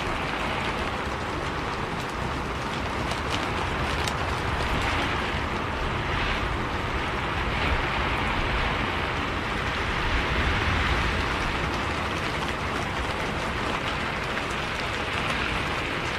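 Steady rain hiss over the low rumble of a moving bus, with a few faint ticks of drops.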